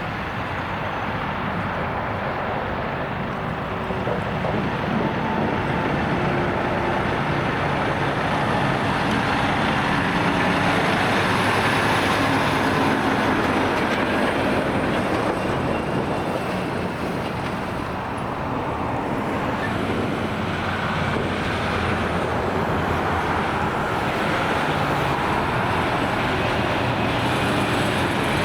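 Road traffic with heavy trucks passing: a continuous mix of diesel engine and tyre noise that swells and fades as vehicles go by, loudest about ten to fourteen seconds in.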